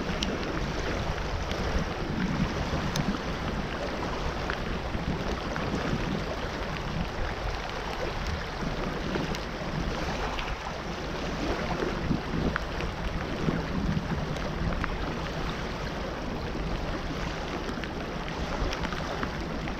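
Water rushing steadily through a flowing outflow, an even hiss with no breaks.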